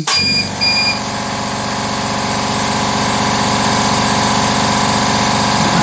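Air compressor for the CNC mill's air assist switching on with a click and running steadily, a pulsing motor hum that slowly grows a little louder. A few short high electronic beeps sound over its first second.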